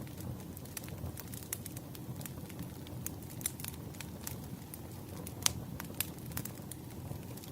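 Wood fire burning with a low steady rush and irregular sharp crackles and pops, the loudest pop about halfway through.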